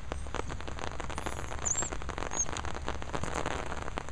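Rain falling, heard as a steady mass of small quick taps of drops striking an umbrella held over the camera.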